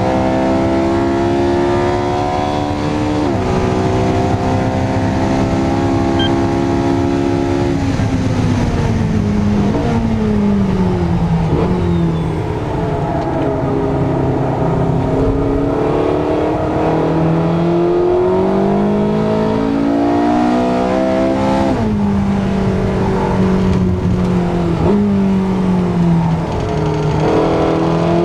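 Porsche 918 Spyder's V8 pulling hard through the gears: the engine note climbs and drops sharply at each quick upshift, about 3 seconds in and again later. A third of the way through, the pitch steps down in a run of downshifts under braking before it rises once more.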